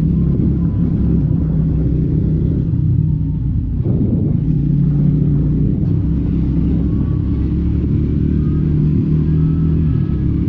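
Triumph Scrambler 400X's single-cylinder engine running under way through its stock exhaust, with a steady, low engine note. There is a brief break in the note about four seconds in.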